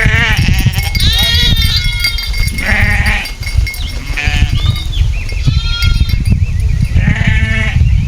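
Farm animals bleating: about five separate calls in a row, each with a quavering pitch, over a steady low rumble.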